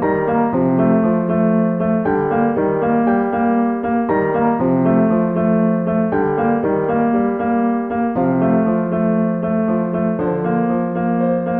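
Background piano music: a steady run of sustained notes and chords with no voice.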